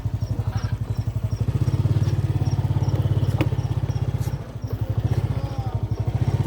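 A vehicle engine running with a fast, even pulsing throb. It grows louder about a second and a half in and drops briefly just past the middle before picking up again.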